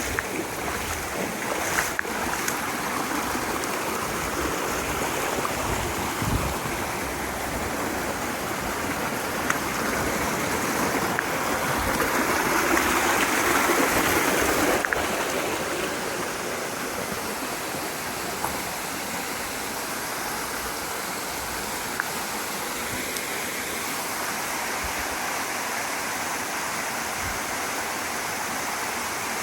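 Mountain stream water rushing over rocks, a steady wash that swells louder for a few seconds about halfway through, with a few light clicks.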